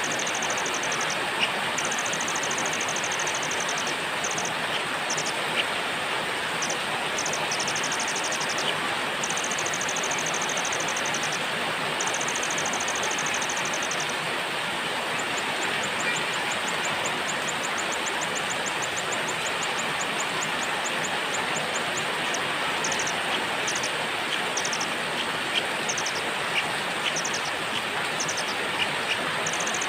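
Steady hiss of rain with a small songbird singing over it in high, rapid trilled phrases, broken by short pauses; about halfway through one long trill of evenly spaced notes.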